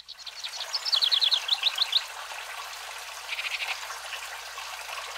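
A songbird sings a rapid run of about ten downslurred chirps about a second in, then a softer, shorter trill a little past the middle, over a steady outdoor hiss.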